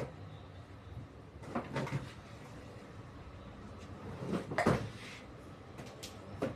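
A few clunks and knocks, about two seconds apart, over a steady low hum, as a washing machine is handled.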